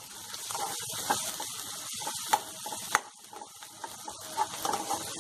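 Chopped onions and ground spices sizzling in hot mustard oil in a kadhai on a low flame, a steady hiss, while a metal spoon stirs and scrapes through them with a couple of sharp taps against the pan.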